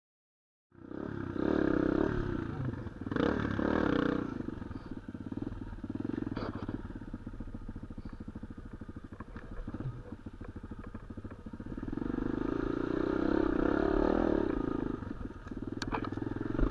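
Small off-road motorcycle engine running and revving up and down several times, with a few sharp clicks near the end.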